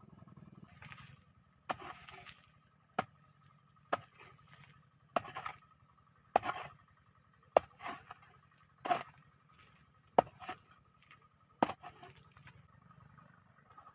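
A hand tool chopping in a steady rhythm: nine strikes about one every 1.2 seconds, each a sharp crack followed by a short scrape. Underneath runs a steady high buzz of cicadas.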